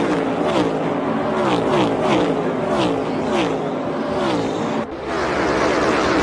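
NASCAR Cup Series stock car's V8 engine running loud, its pitch repeatedly dropping and climbing back about every half second, with a brief break about five seconds in.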